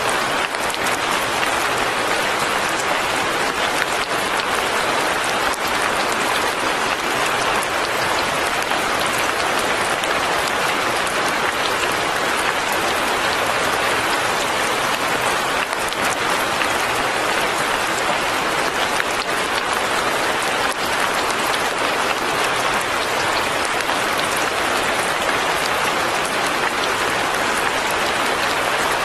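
Steady light rain falling, an even hiss without breaks or pauses.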